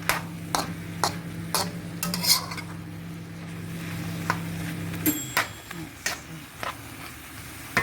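Chicken with garlic and ginger sizzling as it fries in a wok, stirred with a utensil that clicks and scrapes against the pan, most often in the first couple of seconds. A low steady hum stops suddenly about five seconds in.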